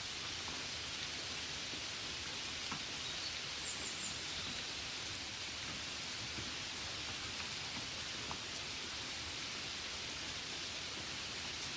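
Gentle steady rain: an even hiss with a few soft taps of single drops.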